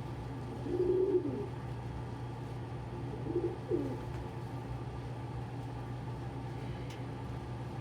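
Domestic pigeons cooing: two low, gliding coos, about a second in and again about three and a half seconds in, over a steady low hum.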